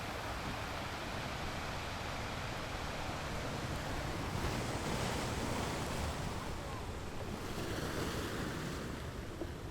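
Ocean waves breaking on rocks, a continuous rush of surf that swells in the middle and eases off near the end.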